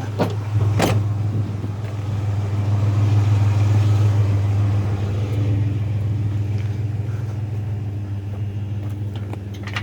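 Truck engine and road noise heard while driving, a steady low drone that swells slightly a few seconds in and eases off, with a single sharp click about a second in.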